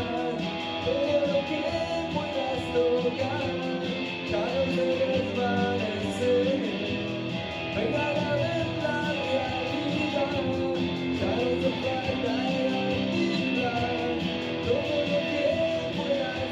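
Live rock band playing an instrumental stretch of a song: guitars strummed steadily, with a wavering melody line over them.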